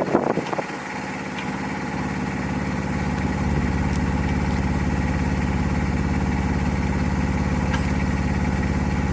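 Engine running at a steady, even speed, growing louder over the first three seconds or so and then holding level. A brief rattle of irregular noise comes right at the start.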